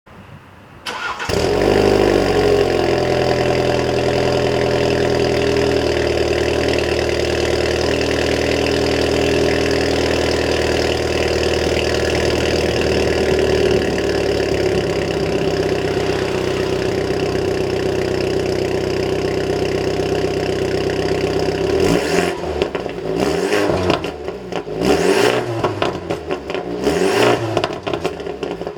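BMW 220i's B48 2.0-litre turbocharged four-cylinder starting through an ARQRAY custom muffler with its exhaust valve fully open. It catches about a second in and settles into a steady idle that drops slightly in pitch, then near the end it is blipped with several quick revs.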